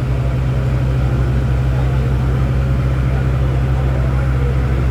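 Passenger ferry's engine running with a steady low drone and a fast even throb, with a murmur of passengers' voices over it.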